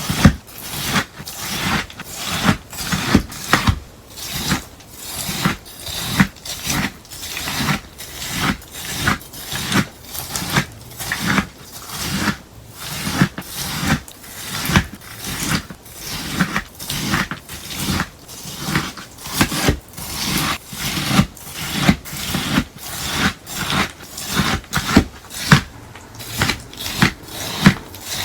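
Slime mixed with melamine sponge crunching crisply in a steady rhythm of about two strokes a second.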